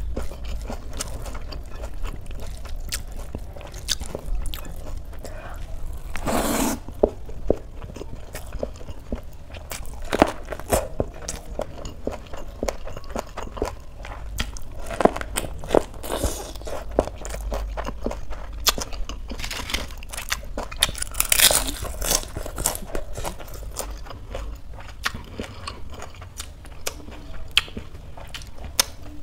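Close-miked chewing and crunching of crisp fried potato sticks (aloo bhujia) eaten by hand with rice and a cabbage leaf wrap: a dense run of small crisp crunches, with a louder crunching bite about six seconds in and another about two-thirds of the way through.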